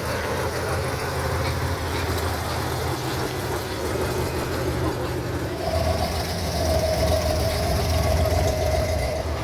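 A car engine idling steadily with a low rumble. About six seconds in, a steady higher whine joins it.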